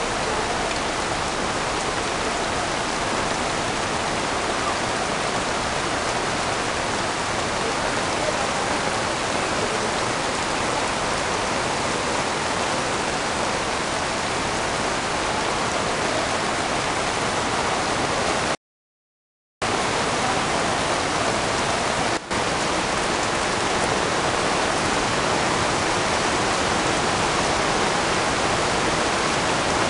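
Heavy rain falling in a steady, dense hiss. The sound cuts out completely for about a second about two-thirds of the way through, then the rain resumes.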